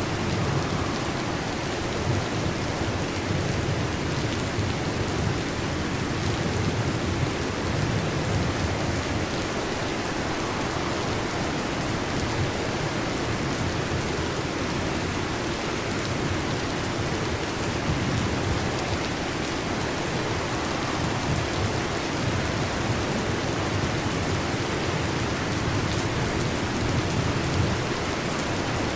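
Heavy rain drumming steadily on a metal roof, with a low rumble of distant thunder swelling now and then underneath.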